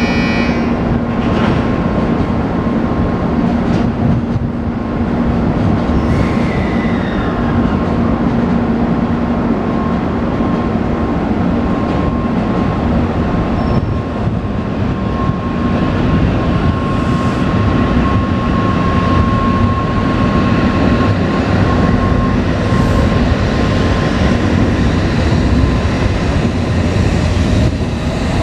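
N700-series Shinkansen train pulling out of the station, its cars gliding past with a steady electric hum and the rumble of wheels on the track.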